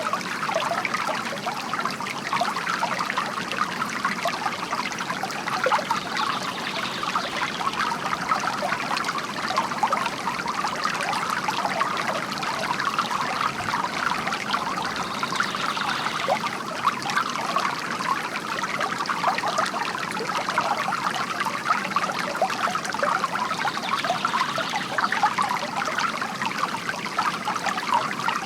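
Water from a bamboo fountain spout trickling and splashing steadily into the water below, a constant dense patter of small splashes.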